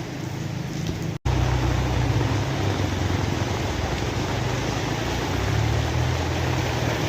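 Steady rain falling, a dense even hiss. About a second in it cuts out for an instant, then resumes with a stronger low rumble underneath.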